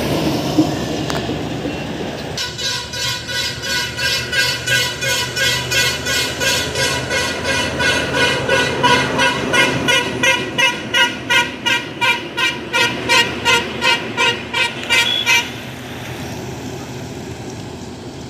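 Vehicle horn honking in rapid, even pulses, about two to three blasts a second. It starts a couple of seconds in, runs for about thirteen seconds and cuts off abruptly, over steady road and engine noise.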